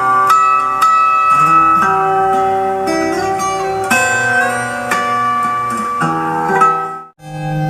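Acoustic guitar played fingerstyle: a slow, sad melody of ringing held notes, with slides from one note to the next. The sound drops out briefly about seven seconds in.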